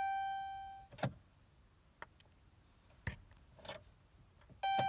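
Dashboard warning chime of a 2011 Dodge Grand Caravan: a single electronic ding fading away in the first second and sounding again near the end, with a few short clicks in between.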